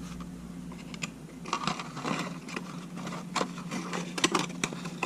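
Light clicks and scrapes of small camera parts and tools being handled on a workbench, starting about a second and a half in, over a steady low hum.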